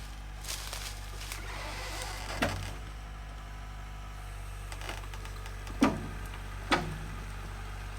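Skid loader engine running with a steady low drone, with three sharp metallic clanks: one near the middle and two close together near the end, the second of these loudest.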